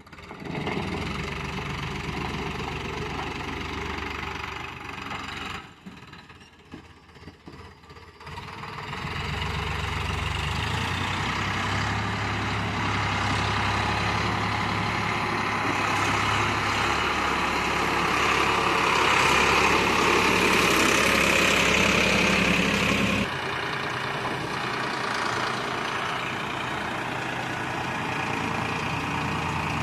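Heavy diesel engine running, easing off for a couple of seconds early on, then working harder and louder for several seconds, before dropping suddenly to a steadier, lower run about three quarters of the way through.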